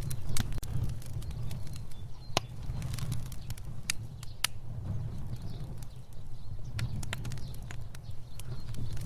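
Fire burning with a steady low rumble and irregular crackles and pops, a few sharp louder snaps among them.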